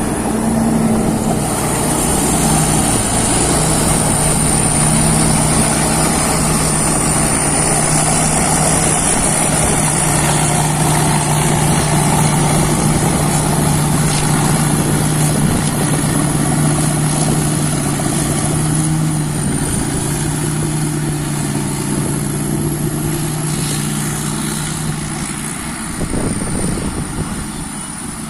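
Peng Charoen Kan Chang rice combine harvester running steadily: a loud engine drone with a thin high whine above it, easing off a little over the last few seconds.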